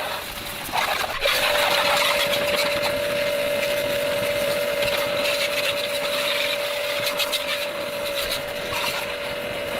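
A small motor starts about a second in and runs at a steady, unchanging pitch, with a few knocks just before it starts.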